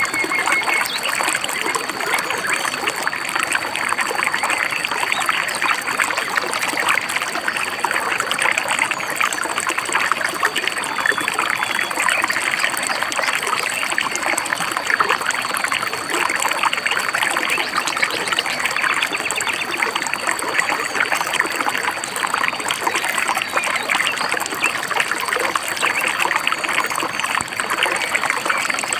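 Small river or stream babbling and trickling steadily over rocks, with a few faint bird chirps above it.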